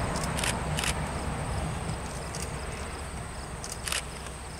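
Low rumble of a diesel freight train fading as it moves away, over a steady high insect buzz with a few short rasps.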